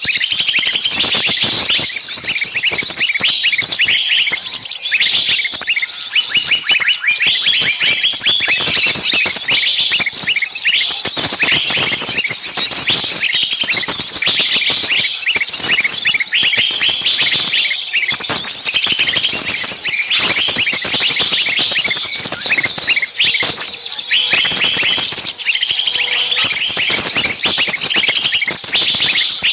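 A dense, noisy chorus of many small songbirds chirping and shrieking over one another without a break: agitated, screaming distress-type calls of the kind used as a lure to draw small birds in for trapping.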